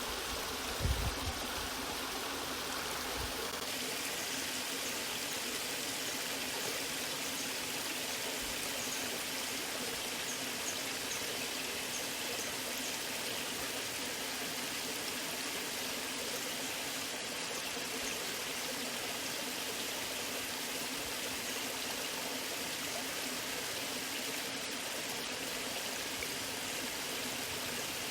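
Waterfall water rushing, a steady, even sound with no change, and a brief low thump about a second in.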